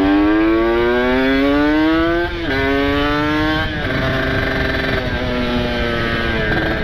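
Kawasaki Ninja RR two-stroke single-cylinder engine with a ported engine and open exhaust, accelerating under the rider: the revs climb for about two seconds, drop with an upshift, climb briefly again and drop with a second upshift, then hold fairly steady. Wind and road noise run underneath.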